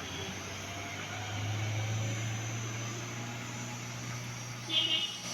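Vehicle engine running steadily with a low hum that swells about a second in, then eases; a brief high-pitched sound near the end.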